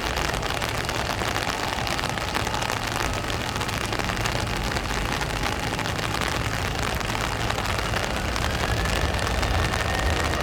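Steady rushing noise of rain mixed with the roar of a cargo jet's engines on a wet runway, with a faint engine whine rising slightly near the end.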